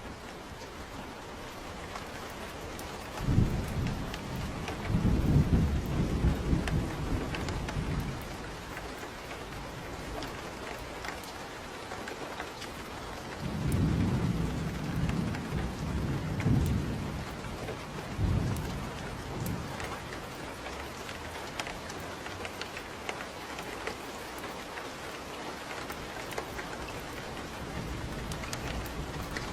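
Steady rain with rolling thunder. A long low rumble starts about three seconds in, and a second one comes about halfway through.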